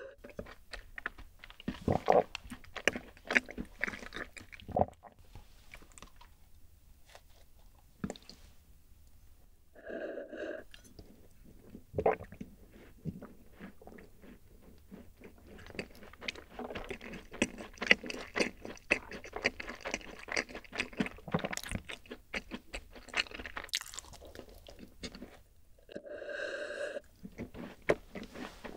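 Close-up chewing of a rice-oat cookie: soft irregular crunches and wet mouth clicks, getting busier in the second half. A short low throat sound comes about ten seconds in and again just before the end.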